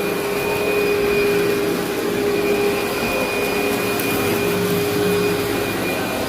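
Vacuum cleaner running steadily with a constant motor whine as it is worked over heavily soiled carpet.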